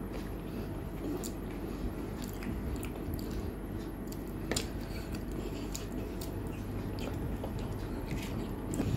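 Close-miked chewing of a mouthful of rice and food, with soft wet squishing and occasional small clicks as fingers mix rice on the plate.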